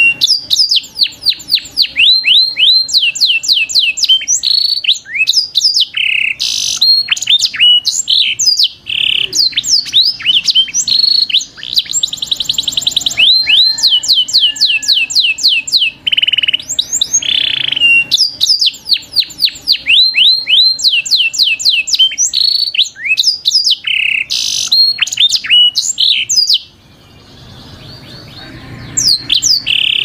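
Songbirds close by chirping: long runs of quick, high, downward-sweeping chirps, with harsher calls in between and a fast buzzy trill near the middle. The calling drops away briefly near the end, then resumes.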